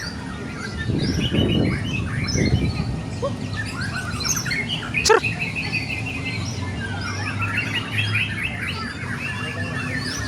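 White-rumped shamas (murai batu) singing, several birds overlapping in a dense, continuous chorus of chirps and whistled phrases, with one sharp click about five seconds in.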